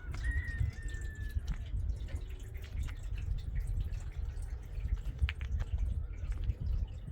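Water dripping and splashing in irregular small drops over a steady low rumble.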